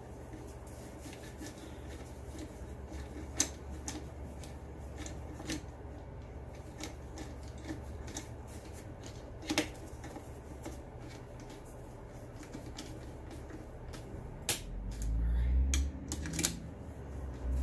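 Hand tools tightening the screws on a leaf blower's muffler: a run of fine clicking with a few sharper knocks of metal parts. A low rumble comes in near the end.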